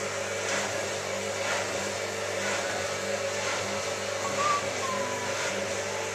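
Hotpoint 9534A washing machine running, its motor humming steadily, with a swish about once a second as the drum turns.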